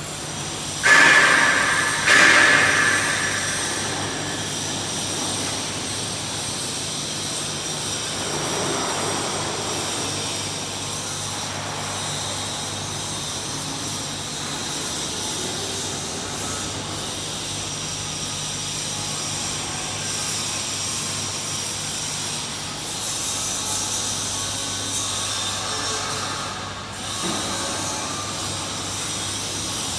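Bucket wheel sand washing machine running: a steady mechanical hum under a wash of noise. Two loud sudden sounds with a short ring come about one and two seconds in.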